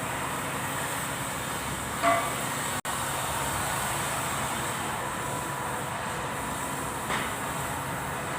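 Kubota V1501 four-cylinder diesel engine running steadily, with a brief louder knock about two seconds in and again near the end.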